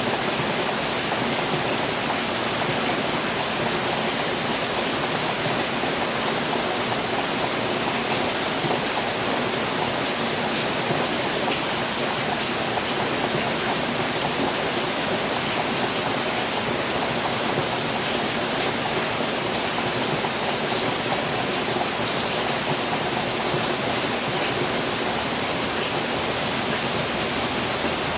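Steady heavy rain falling on a roof, a dense even patter that does not let up.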